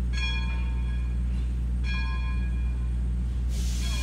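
Steam locomotive bell ringing, two clangs about 1.8 seconds apart, each fading out. A loud hiss of steam starts near the end.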